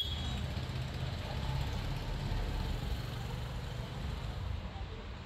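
A motor vehicle's engine idling steadily: a low, even rumble.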